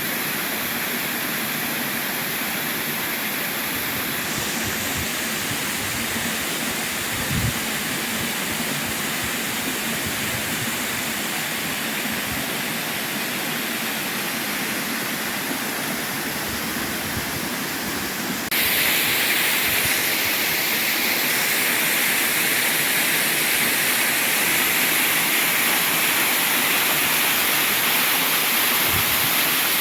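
Waterfall: a steady rush of falling water, which jumps suddenly louder and brighter about two-thirds of the way through.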